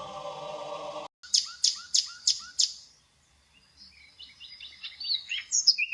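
A held musical tone cuts off about a second in; then a bird gives five quick downward-sweeping chirps, followed by softer, varied twittering that grows louder near the end.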